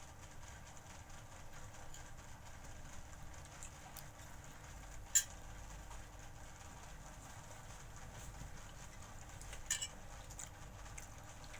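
Faint eating sounds with a sharp click of a utensil on a plate about five seconds in and a couple of smaller clicks near the end.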